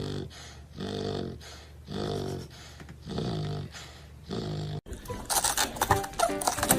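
A dog making a string of short, bending vocal sounds, about one a second. They stop at a sudden cut about two-thirds of the way in, followed by music with quick knocking beats.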